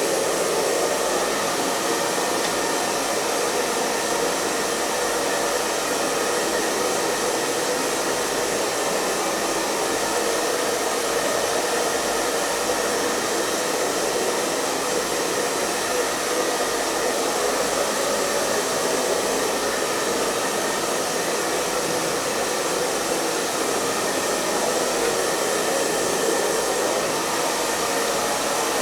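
Hair dryer running steadily: a constant airy whoosh of blown air over the motor's hum, with faint steady whine tones and no change in speed.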